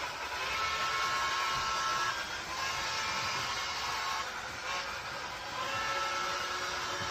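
A train running steadily, a continuous whirring noise with a faint whine that drifts slightly up and down in pitch.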